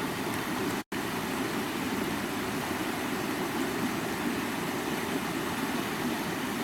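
Stream water running over rocks in a steady, even rush, fullest in the low-middle range. The sound cuts out completely for a split second just under a second in.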